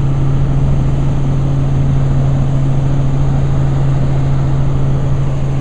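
Helicopter in flight heard from inside the cabin: a loud, steady drone with a strong constant low hum.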